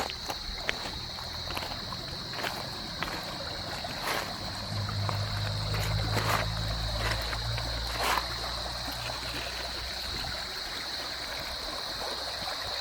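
Stream water flowing and trickling between rocks, under a constant high-pitched hum, with scattered sharp clicks. A low rumble swells in the middle for about four seconds.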